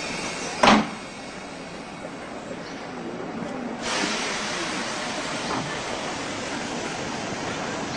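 Commuter train at a station platform: a sharp knock about a second in, then steady noise that swells into a louder hissing rush about four seconds in as the train starts to pull away.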